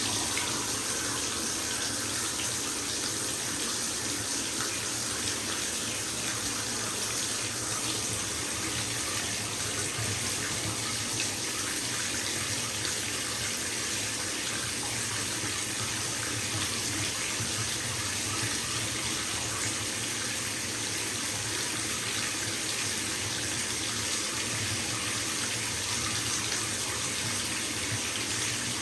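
Bathtub tap running into the tub as it fills: a steady, even rush of water pouring into standing water.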